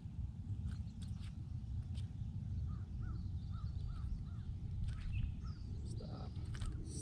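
A bird calls a quick run of five or so short notes, with a few higher chirps after them, over a steady low rumble. Light scattered clicks and knocks come in between as a small bass is reeled in and lifted aboard a boat.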